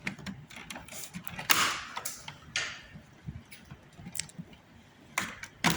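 Scattered plastic clicks and a short scraping rustle about one and a half seconds in, as a wire connector in a washing machine is worked loose and unplugged by hand.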